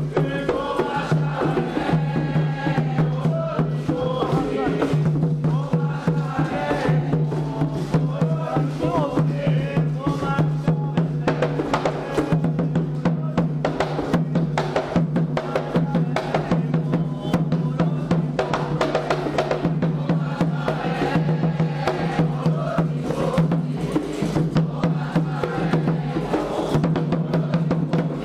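Candomblé ritual music: atabaque hand drums and a bell beat a steady, fast rhythm, with a group chanting a song in Yoruba over them.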